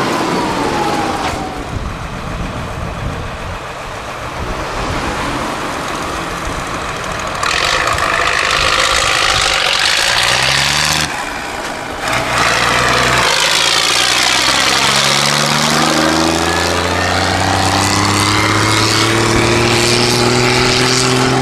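Big farm tractor's turbo diesel engine running through a straight exhaust pipe. It changes abruptly a few times, then over the second half its note climbs steadily in pitch as the engine speeds up under load.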